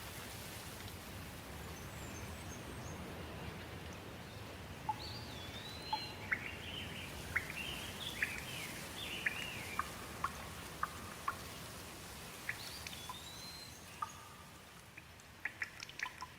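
Steady rain with songbirds calling over it: a few rising-and-falling whistles and a run of quick downward chirps in the middle. Near the end the rain thins and sharp drips tick.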